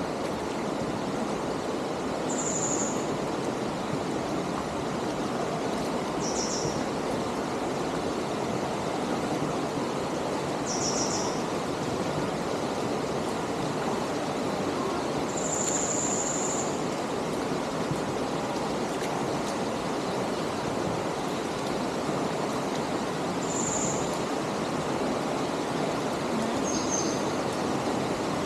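River water rushing steadily, with a few short, high chirps every few seconds.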